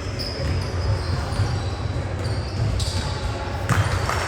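Basketball bouncing repeatedly on a hard gym floor in a large echoing hall, with high squeaks and voices in the background.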